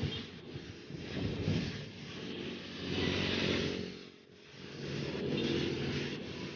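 Motorcycle engines running, the sound rising and falling, with a brief dip about four seconds in.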